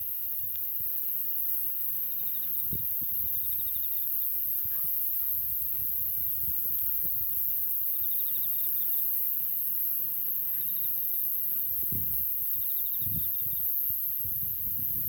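Insects trilling in several short pulsed phrases over a steady high-pitched hiss, with scattered soft low knocks.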